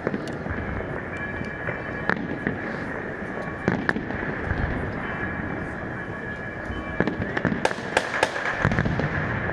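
New Year's fireworks going off: scattered sharp bangs and crackles, with a quick run of several reports about seven to nine seconds in.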